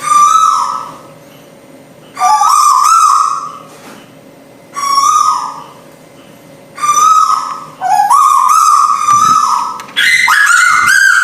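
Tuwu owl lure recording: a short call near 1 kHz, about a second long, repeats roughly every two seconds, each with high, downward-sweeping chirps above it. Near the end the calls come quicker and higher.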